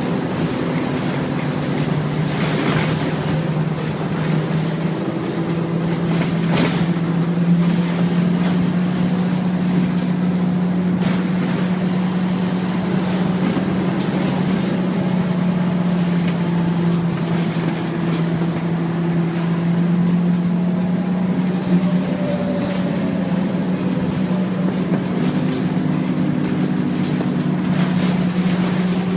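Scania N230UD Omnicity double-decker bus's five-cylinder diesel engine running under way: a steady drone that drifts a little up and down in pitch. A few short knocks or rattles come through, the clearest around 3 s and 7 s in.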